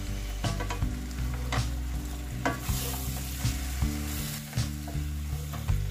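Raw prawns sizzling in hot oil and onion masala in a stainless steel pan as a wooden spatula stirs them, with repeated taps and scrapes against the pan. Soft background music plays underneath.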